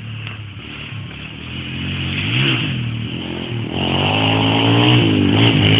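Dirt bike engine revving as the bike approaches, growing steadily louder, its pitch rising and falling with the throttle about two and a half seconds in and again from about four seconds on.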